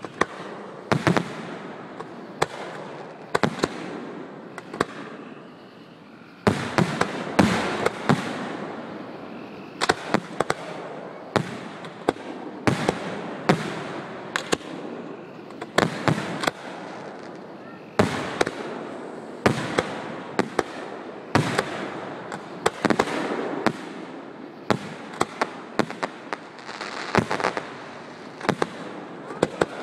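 Aerial fireworks shells bursting in quick succession: dozens of sharp bangs, often two or three close together, over a continuous background of noise.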